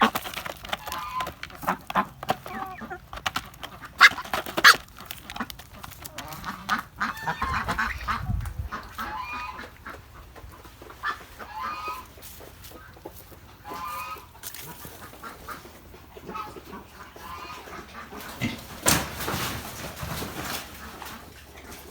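Ducks quacking in short, repeated calls. Sharp clicks and knocks come through the first few seconds and again near the end, with a dull low thud about eight seconds in.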